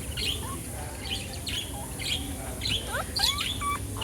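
Small birds chirping: a run of short high chirps, with a few quick rising whistled notes about three seconds in.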